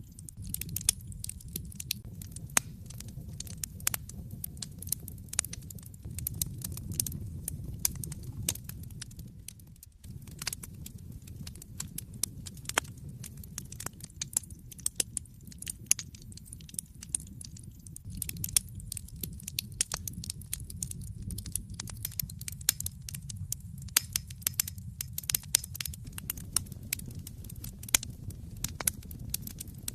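Wood fire burning in an open fireplace: dense, irregular sharp crackles and pops over a steady low rumble of the flames. The low rumble briefly drops out about ten seconds in.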